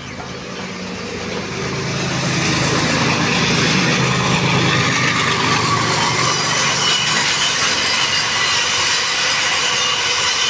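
Container freight train passing close by, headed by a WDG4G (GE Evolution) diesel locomotive: the diesel engine's drone swells over the first two seconds as the locomotive nears, then the wagons keep up a loud, steady rumble and rail clatter with some high wheel-squeal tones.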